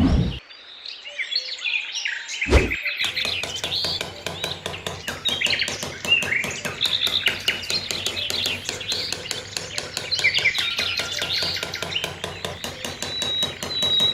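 Many small birds chirping and twittering, with a single thump about two and a half seconds in and a fast, even ticking underneath from about three seconds on.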